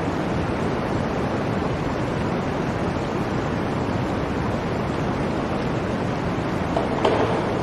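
Blizzard wind blowing in a steady, even rush, with a brief louder swell near the end.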